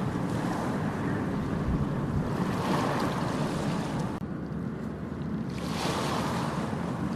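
Ocean waves washing onto a beach, the surf swelling twice, with wind rumbling on the microphone.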